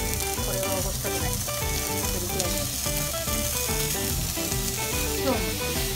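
Cubes of pork belly sizzling as they drop into a hot frying pan, under background music.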